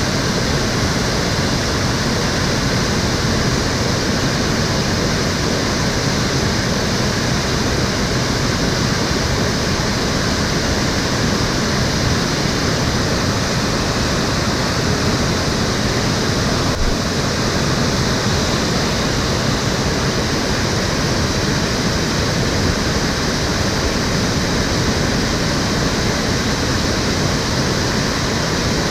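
Water of the Cheonggyecheon stream flowing and splashing in a steady, unbroken rush.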